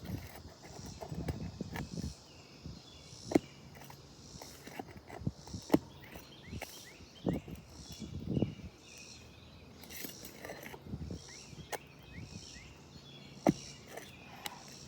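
Scraping and rustling of brittle asphalt shingles being worked loose on a roof, broken by four sharp knocks spread through. Insects chirp steadily in the background.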